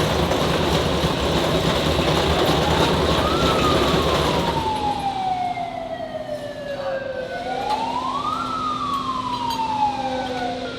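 Wailing siren, its pitch rising quickly and falling slowly, twice, over loud machinery noise that drops away about four and a half seconds in, leaving a steady low hum.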